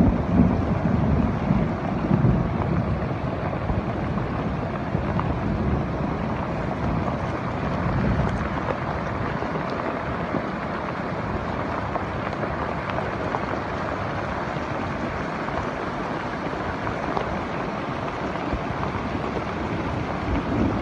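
Rainstorm: a steady rushing noise of heavy rain and running water. Gusts of wind buffet the microphone in the first several seconds.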